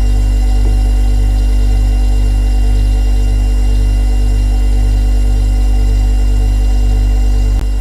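Refrigerator compressor running: a steady, loud low hum with a slow regular throb in it and a few steady higher tones, and a brief click near the end.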